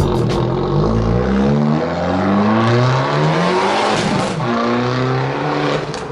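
Turbocharged four-cylinder engine of a Fiat Abarth 595 tuned to 250 bhp, accelerating hard. The pitch climbs through the revs and drops back at upshifts about two and four seconds in.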